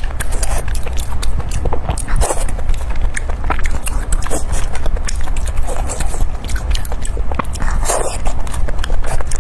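Close-miked chewing and wet mouth sounds: a steady run of sharp, sticky clicks and smacks, with louder ones about two seconds in and near the end.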